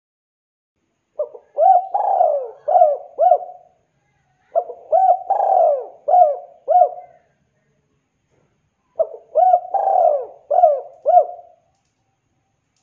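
Spotted dove (tekukur) cooing: three phrases of several hooked coo notes each, about two and a half seconds long, separated by pauses. This is the dove's calling song, used as a lure to draw other doves into answering.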